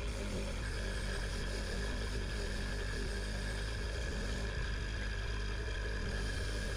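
A workshop machine's motor running steadily with a low hum. A steady high whine joins about half a second in.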